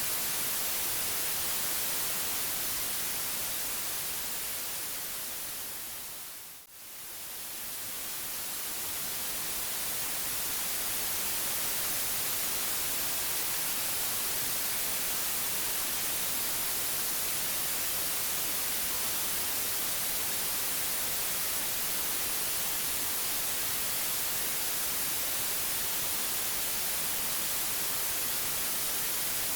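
Steady white noise hiss. About seven seconds in it fades down almost to nothing, then swells back to full level over a few seconds.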